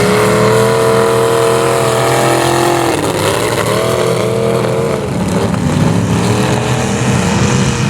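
Vehicle engine revving: the pitch climbs at the start, holds high for about three seconds, then drops off and wavers with further smaller revs.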